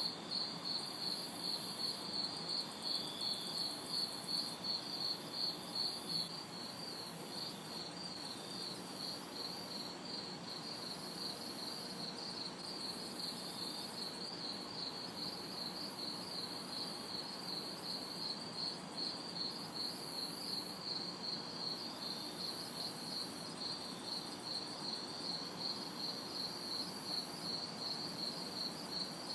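Night chorus of crickets chirping in a steady, even pulse, louder for the first few seconds, with a higher insect buzz, cicadas, switching on and off every second or two. Underneath is a faint, steady hum of distant city traffic.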